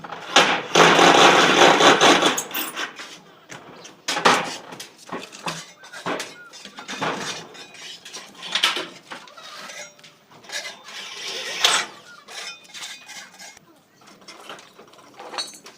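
Tin roofing sheets being handled and knocked: a loud rattling scrape for about two seconds at the start, then a string of uneven metallic clanks and knocks.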